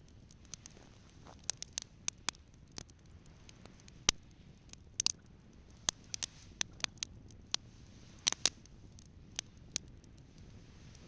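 Wood campfire crackling: irregular sharp pops and snaps, the loudest about four, five and eight seconds in.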